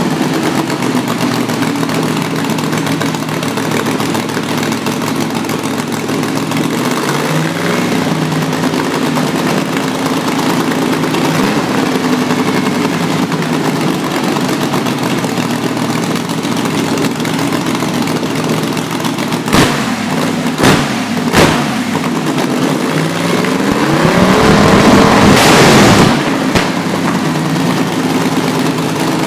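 Alcohol-injected small-block Chevy V8 race engine running at idle, blipped sharply three times about two-thirds of the way through. Near the end it is revved up for a couple of seconds, the loudest part, and drops back suddenly to idle.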